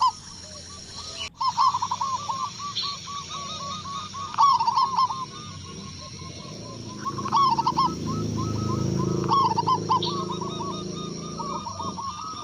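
Zebra doves (perkutut) cooing: quick runs of short rising-and-falling notes, broken every couple of seconds by louder phrases. A low rumble swells in the middle and fades again.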